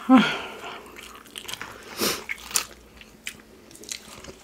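Close-miked chewing and mouth sounds of someone eating food, with scattered wet smacks and clicks. A brief low vocal sound comes right at the start.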